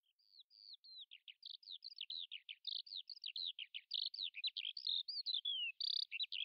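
A songbird singing a fast, unbroken run of short, varied chirps and whistles. It grows steadily louder, as if fading in.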